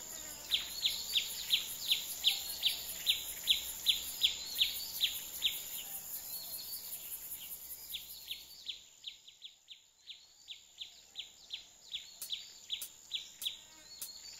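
Meadow ambience: a bird repeating a short falling chirp about three times a second over a steady high insect buzz. The buzz stops about two-thirds of the way through, while the chirps fade briefly and then come back.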